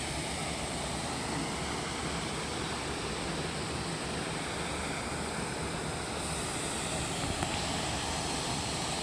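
Steady rush of flowing water, an unbroken even noise with no change in level.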